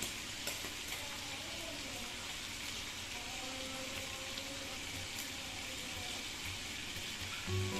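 Food frying in a pan: a steady sizzle with a few faint light clicks.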